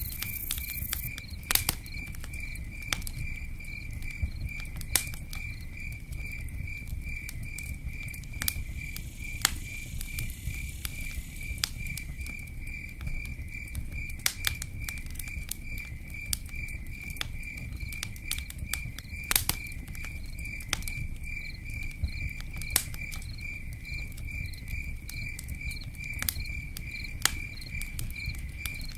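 A cricket chirping in a steady, fast pulsing trill over a campfire crackling, with sharp pops about once a second and a steady low noise underneath.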